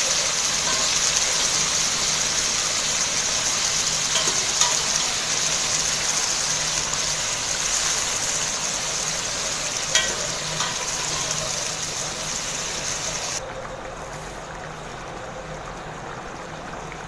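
Pieces of boiled goat liver sizzling as they fry in hot oil in a kadai, stirred with a spatula that clicks against the pan a couple of times. About 13 seconds in the sizzle drops off abruptly to a quieter, duller hiss.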